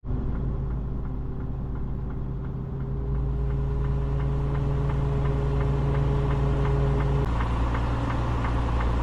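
Semi-truck diesel engine running steadily, with a light, regular ticking of about three a second. One steady hum in the engine sound stops about seven seconds in.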